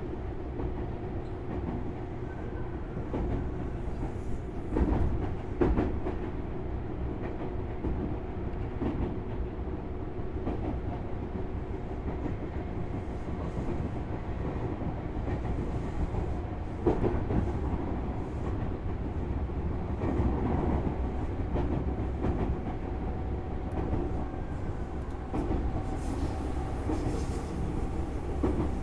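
Tobu Railway Series 6050 electric train running, heard inside the motor car: a steady rumble and hum from the running gear, with occasional clicks of the wheels over rail joints.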